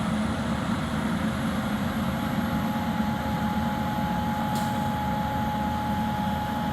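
Heavy diesel machinery engine running steadily with a low rumble; a faint steady whine joins about three seconds in.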